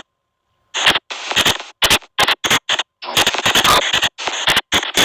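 SP White Noise Box spirit-box app playing through a phone speaker: chopped white noise, short bursts of hiss cut abruptly on and off at an uneven pace, several a second, starting after nearly a second of silence.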